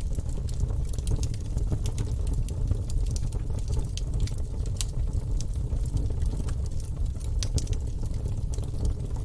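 Wood fire in a fireplace burning with a steady low rumble and irregular sharp crackles and pops from the logs.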